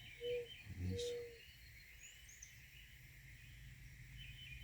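A dove cooing, a few low hollow notes in the first second and a half, with small birds chirping faintly throughout.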